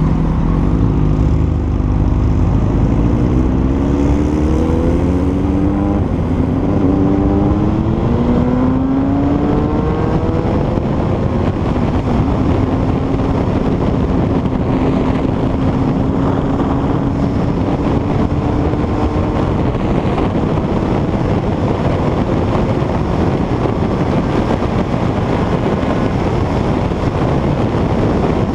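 Honda CBR900RR FireBlade's inline-four engine pulling away from a stop and accelerating through several gears, its pitch rising in steps for the first ten seconds or so. It then holds a steady pitch at cruising speed and later fades into the noise, under heavy wind rush on the microphone.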